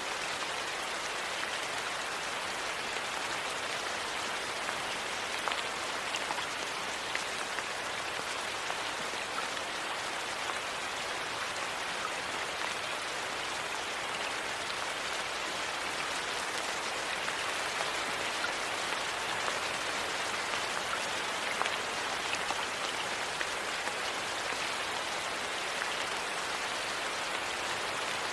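Steady rain falling, an even hiss with scattered faint crackles through it.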